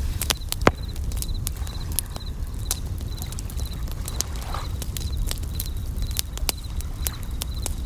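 Campfire crackling with frequent sharp pops over a low rumble, while a bell cricket chirps in short, evenly repeated trills about twice a second. A soft wash of a wave swells and fades about halfway through.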